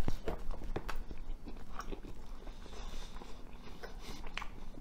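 A person biting into a slice of pizza and chewing it, with irregular small clicks and crunches of the mouthful.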